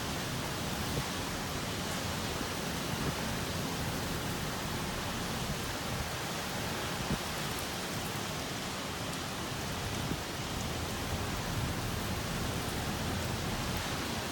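Typhoon rainstorm: a steady rush of heavy rain and strong wind, with a few faint ticks of drops striking.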